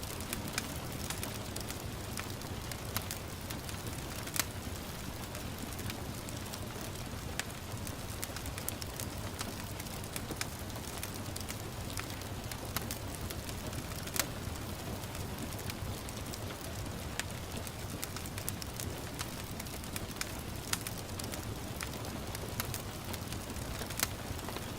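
Wood fire crackling, with sharp pops at irregular intervals, over a steady hiss of gentle rain.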